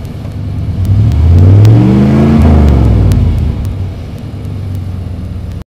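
1995 Chevrolet Suburban's engine revved once in the first minutes after a cold start: the pitch climbs, holds for about a second, then falls back to a steady lower running speed.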